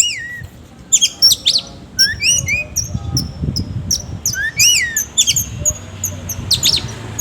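Oriental magpie-robin (kacer) singing a fast, varied song of sharp high notes, quick downward sweeps and rising-then-falling whistles, with rough mimicked filler phrases.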